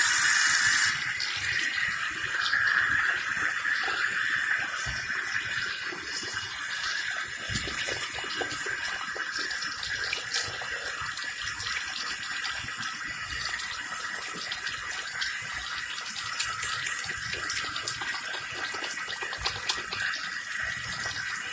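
Tap water running into a sink while hands are washed with a bar of soap. There is a louder gush in the first second, then a steady flow with small splashes and rubbing.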